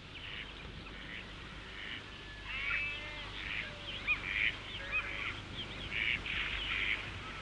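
Waterbirds calling on a lake: a run of short calls, many sliding up or down in pitch, starting about two and a half seconds in, over a faint hiss.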